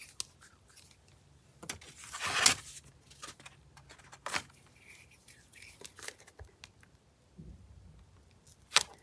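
Paper and small craft tools being handled: rustling and scraping with scattered small clicks and taps, the loudest a short rustle about two and a half seconds in.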